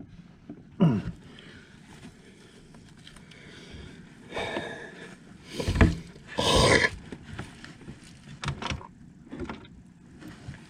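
Handling noises of fitting a flywheel onto a snowmobile engine's crankshaft: scattered knocks, clicks and scrapes of metal parts and tools, with a sharp knock and a louder scrape about six seconds in, and a short grunt about a second in.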